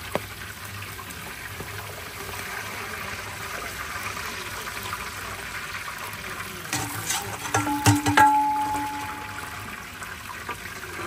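Chicken pieces sizzling in a large aluminium cooking pot, a steady hiss. About seven to eight seconds in there are a few sharp metal clanks, and the last one rings briefly.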